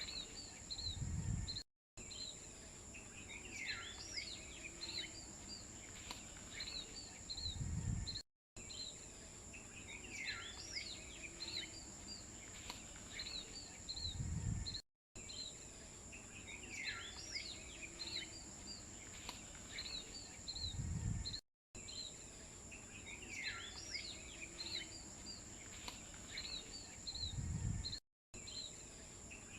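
Birds chirping, with repeated short chirps and sliding calls, over a steady high-pitched hum. The same few seconds of ambience repeat about every six and a half seconds. Each repeat brings a low thump and a brief cut to silence, the sign of a looped recording.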